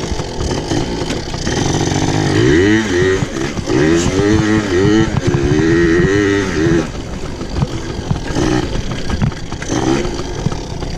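Pit bike engine revving hard as it is ridden, its pitch climbing and dropping several times over a few seconds, then running lower and rougher near the end.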